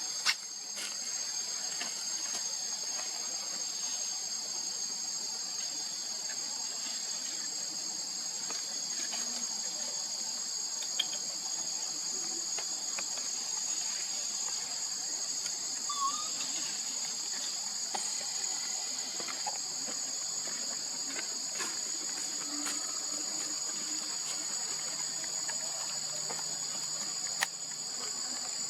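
Steady, high-pitched chorus of insects droning without a break, with a few faint clicks and taps here and there.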